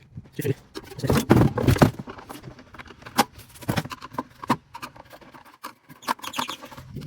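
Irregular scraping, clicking and rattling of metal parts being handled and worked, as the steel trim and clips of a water heater's copper heat exchanger are pried at. The sounds come densest and loudest in the first couple of seconds.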